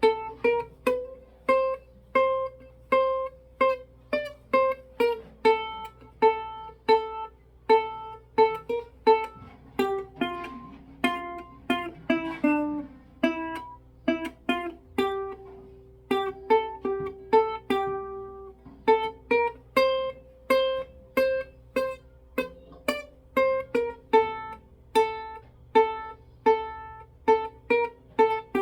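Instrumental music: a simple melody played one note at a time, each note struck or plucked and fading quickly, about two notes a second, with a brief pause about two-thirds of the way through.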